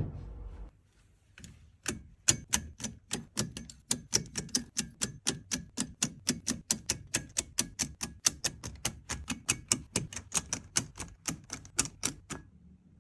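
A rapid, regular series of sharp clicks, about four a second, starting about two seconds in and stopping shortly before the end.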